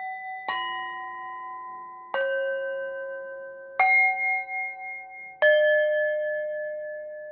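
Metal chimes struck four times, about a second and a half apart, each at a different pitch. Each strike has a sharp attack and rings on with a bright shimmer, the last one fading slowly.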